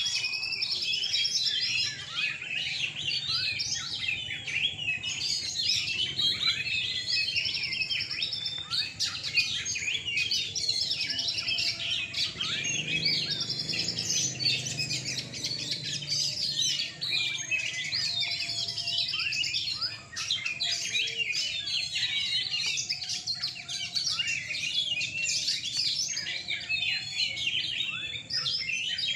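Oriental magpie-robins (kacer) singing together in a song contest: a dense, continuous stream of overlapping whistles, chirps and fast trills. A faint low murmur sits beneath the song in the middle.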